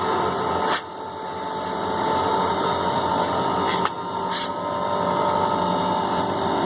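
Steady machinery hum with a thin, steady whine. Sharp clicks come just under a second in and again near four seconds in, each with a brief drop in level.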